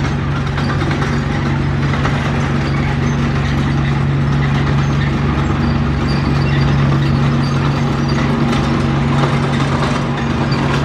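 Komatsu D31P bulldozer's diesel engine running at a steady speed, a constant low hum with mechanical noise over it.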